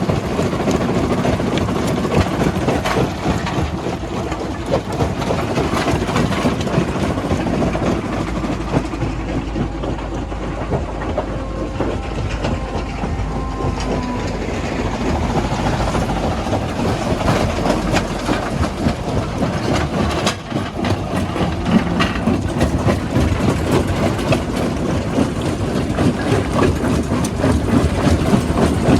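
Stone-crushing machinery running: continuous dense clattering and rattling of rock and steel over a steady low engine drone.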